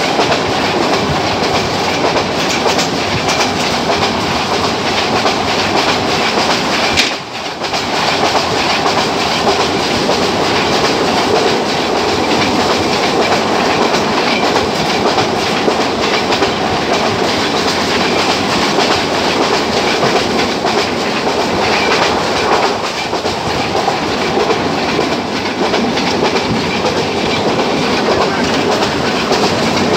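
Mohanagar Goduli passenger train running along the track, a steady loud noise of the moving train that dips briefly about seven seconds in.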